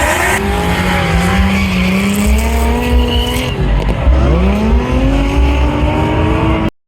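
LS V8 engine of a drifting Nissan 350Z, revving up and down repeatedly with its pitch dipping and climbing again, over tyre squeal. It cuts off suddenly near the end.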